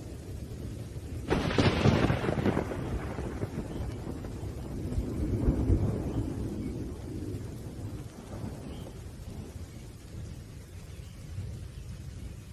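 Thunder over steady rain: a sharp crack about a second in that rolls off into a long low rumble, then a second, lower swell of rumbling about halfway through that dies away.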